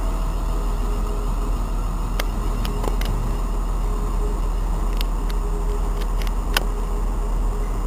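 Passenger multiple-unit train moving along a station platform: a steady low rumble with a few sharp clicks scattered through it.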